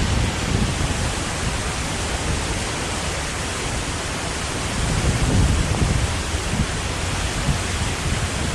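Large waterfall close by: a steady, loud roar of falling water, with uneven low rumbles.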